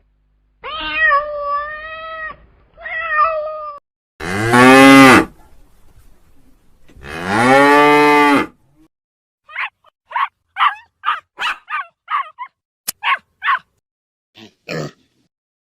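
A domestic cat meowing three times, then a cow mooing twice in long, low calls. These are followed by a run of about a dozen short, quick calls from another animal.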